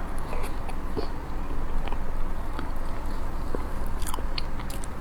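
A person chewing food close to the microphone: scattered short wet mouth clicks and smacks, a few more of them about four seconds in.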